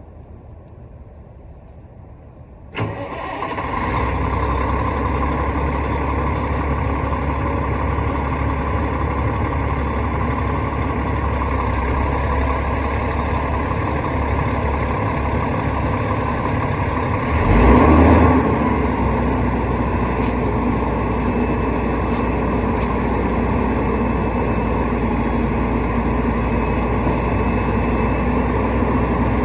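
Rooftop HVAC unit starting up with a sharp click about three seconds in, then running steadily with a low hum. There is a brief louder swell about two-thirds of the way through.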